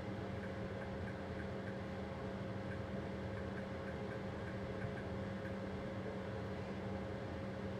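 Steady hum and running noise inside a train driver's cab, with a faint tick repeating evenly, somewhat under twice a second.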